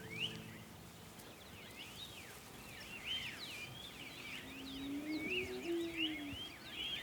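Small songbirds chirping, many short high chirps overlapping and thickening from about two seconds in, with a brief low tone near the middle.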